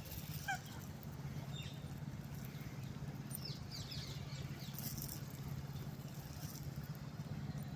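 Faint bird chirps, a few short falling calls, over a steady low background hum.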